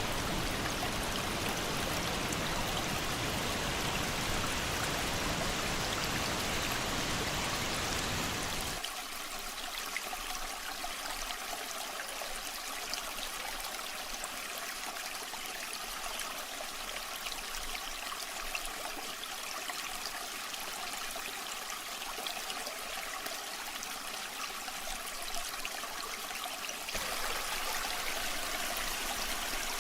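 Waterfall water rushing steadily. About nine seconds in the sound abruptly turns thinner, losing its low rumble, and near the end it returns fuller.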